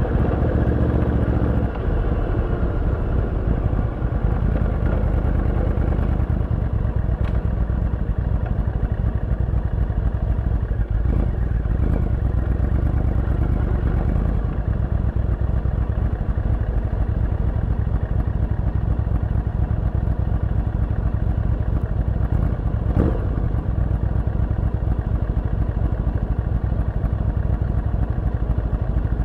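Yamaha VMAX 1700's V4 engine running through an Akrapovic exhaust with dB-killer on the move, a steady low exhaust note with brief dips about two and four seconds in.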